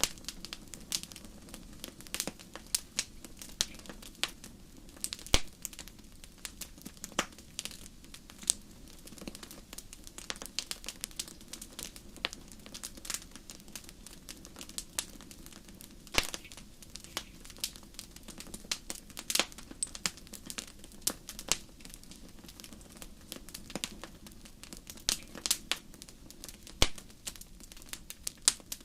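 Wood fire burning in a fireplace: irregular crackles and sharp pops, some louder than others, over a low steady rush of flame.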